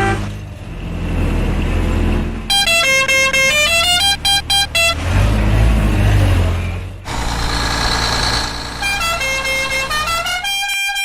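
Cartoon vehicle sound effects: a low engine rumble alternating with runs of short horn toots that step up and down in pitch like a little tune, about two and a half seconds in and again near the end.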